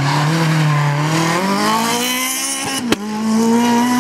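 Rally car engine at full throttle, easing off briefly and then revving up hard as the car accelerates away. Near three seconds in the note breaks sharply and picks up again at slightly lower revs, as in an upshift.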